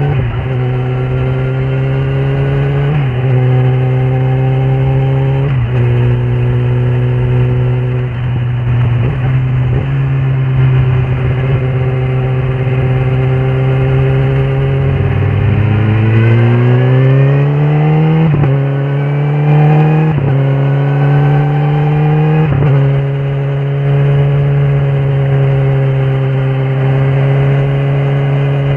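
Kawasaki ZX-10R SE inline-four engine pulling under way. Its pitch holds steady between small steps, then rises smoothly for a few seconds as the revs climb, and drops sharply three times in quick succession as the rider shifts up through the gears.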